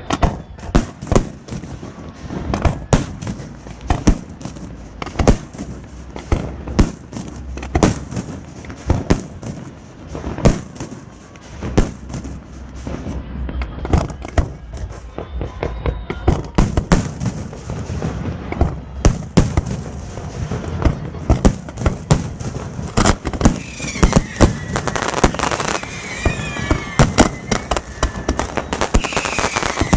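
Fireworks bursting in a rapid, irregular string of bangs, several a second, with wavering whistles from whistling fireworks over the last several seconds.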